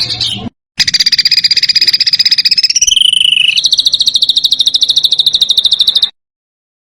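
Songbird masteran (song-tutor) recording: a fast, harsh trill of rapidly repeated high notes, about a dozen a second. It runs in edited segments, breaking off briefly just after the start, shifting to a lower pitch about three seconds in and back up, then stopping abruptly about a second before the end.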